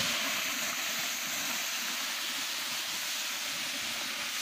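Wet tomato masala sizzling in hot ghee in a large aluminium pot, a steady hiss as its moisture boils off in a cloud of steam.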